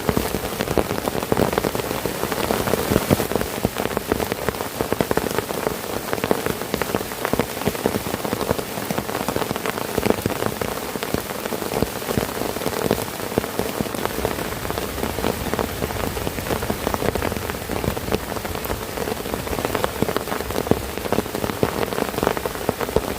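Heavy rain falling steadily on a tent: a dense, even mass of drop hits with no let-up.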